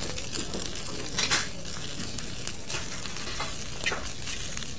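Fried rice sizzling on a hot pan while a metal spoon scrapes and clinks against the pan, a few separate strokes with the loudest about a second in.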